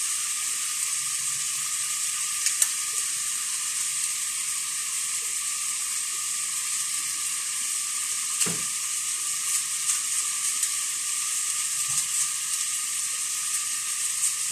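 Food sizzling steadily in hot oil in a cooking pan for tinola, with a few light clicks of a utensil against the pan.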